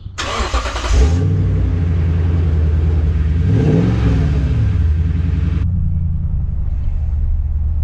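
2014 Toyota Tundra's 5.7-litre i-Force V8 starting up through a newly fitted Flowmaster muffler. The starter cranks briefly and the engine catches about a second in, then settles into a deep idle. About four seconds in it is revved once, rising and falling back to idle.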